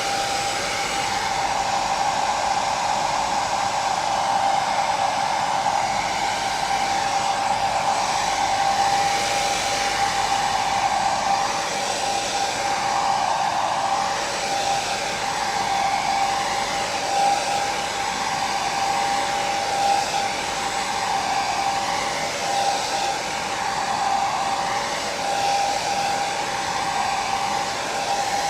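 Hair dryer running continuously: an even rush of blown air with a steady motor whine, its pitch and rush wavering slightly.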